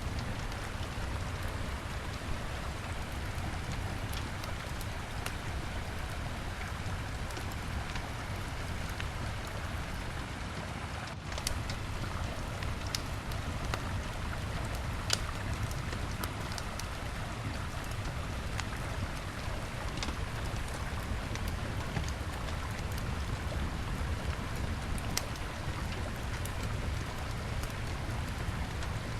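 Wood campfire crackling with scattered sharp pops over the steady rush of a river.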